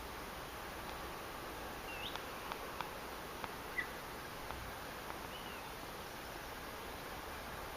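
A few short, high chirps from small birds, about three spread over several seconds, with some light clicks over a faint steady outdoor hiss.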